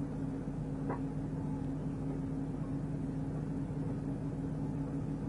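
Steady low drone of a police vehicle running, with a faint short blip about a second in.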